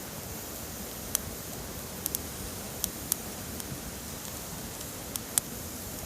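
Wood campfire crackling: a scattering of sharp, irregular pops over a steady hiss.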